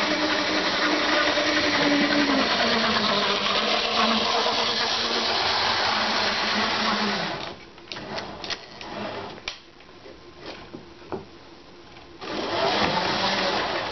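Small HO scale model locomotive running along the track, a Mantua 0-4-0, its electric motor and gears whirring with a wavering hum. Over halfway through it stops for a few seconds, with only a few light clicks, then starts running again near the end.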